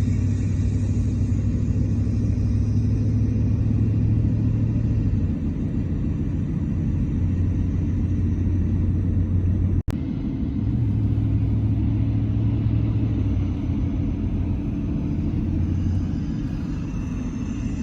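Car engine and road rumble heard inside the cabin while driving, a steady low drone that swells and eases slightly. About ten seconds in it drops out for an instant.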